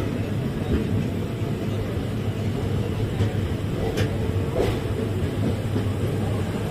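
Indian Railways express coach rolling slowly into a station: a steady low rumble of wheels on the rails, with two short sharp clicks about four seconds in.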